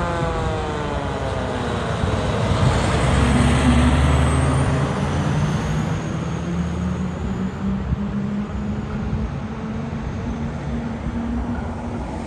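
Fire engine going by: the pitch of its siren falls away in the first second, then the truck's engine runs loud and steady with road noise, loudest about four seconds in and fading gradually.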